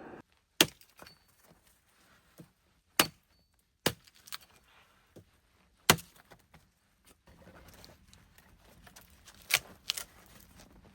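A series of sharp knocks and clinks from hard objects being handled, six loud ones at uneven intervals with faint clicks and rustling between them.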